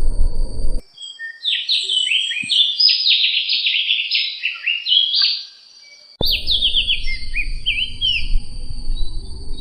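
Opior songbird singing a fast, varied run of short sliding whistled notes, high-pitched and close together. A low background rumble cuts out abruptly about a second in and returns abruptly after about six seconds, as if separate recordings were spliced together.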